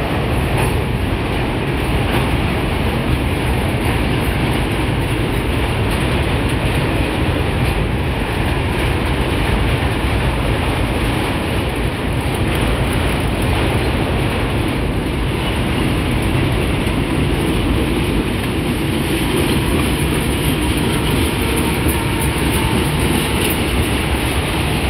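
Freight train of covered hopper wagons rolling past close by: a steady rumble and rattle of steel wheels on the rails.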